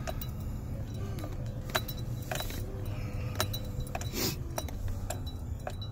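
Pickup truck engine running low and steady, heard inside the cab, with scattered light clicks and clinks over it.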